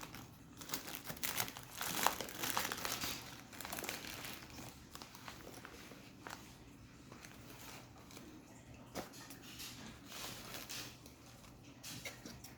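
Plastic starch packaging crinkling and rustling in irregular handfuls as the bag is worked open, busiest in the first few seconds and thinning out to occasional crackles later.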